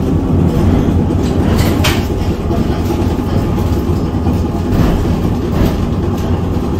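Vintage tram running along street rails: a steady low rumble with a few sharp clicks.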